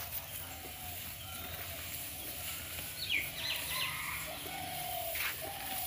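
Birds calling over a steady outdoor background: a quick run of short falling calls about three seconds in, and a longer held call near the end, with a few sharp clicks in between.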